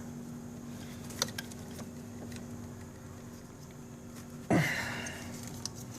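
Faint clicks and handling noises from plastic electrical connectors being worked loose from a scooter's wiring harness, over a steady low hum. A short, louder burst of noise comes about four and a half seconds in.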